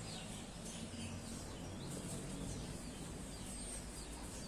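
Faint bird chirps, short and scattered, over a steady low hum.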